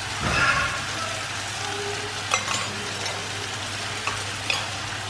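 Onion-tomato masala with curd frying in a metal kadai, a steady sizzling hiss, with a few light clicks.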